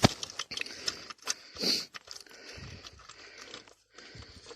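Small metal hardware being handled: a sharp click at the start, then scattered light clicks and clinks of nuts, bolts and washers, with a short scrape about a second and a half in.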